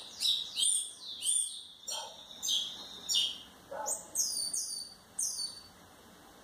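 A small bird chirping repeatedly in quick, high, falling notes, about two a second, stopping about five seconds in. A few fainter, lower calls come in between, about two and four seconds in.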